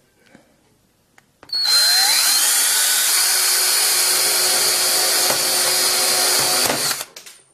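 An 18-volt drill starting about a second and a half in, its pitch rising as it spins up, then running steadily for about five seconds with its bit pressed into the centre of an iPhone 6's screen before it stops.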